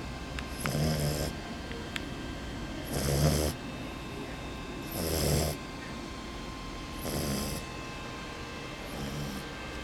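French bulldog snoring in its sleep: five snores about two seconds apart, each a low buzz with a breathy hiss. The last two are fainter.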